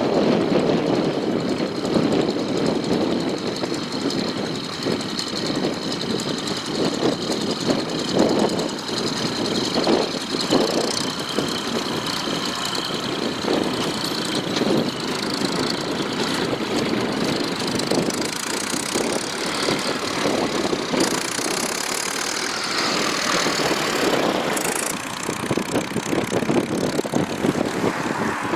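Volvo BM 350 Boxer tractor's diesel engine running steadily under working load, with a fast, even firing pulse and a faint steady high whine above it.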